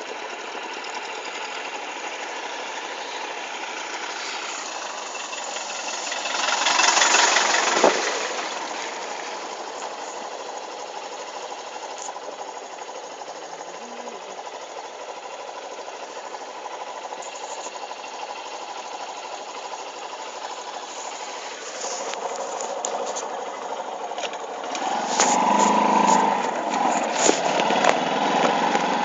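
TVS motorcycle engine running as the bike is ridden, a steady drone. It swells louder about seven seconds in and grows louder and busier over the last few seconds.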